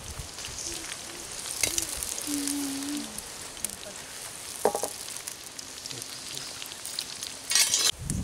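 Sliced onions and green chillies sizzling steadily in hot oil in an iron wok, with a metal slotted spoon stirring and knocking against the pan a few times, the longest scrape near the end.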